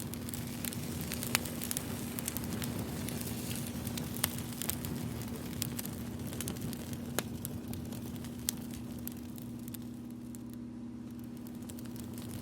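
Campfire crackling: irregular sharp pops, a few louder than the rest, over a soft steady hiss and a low steady hum.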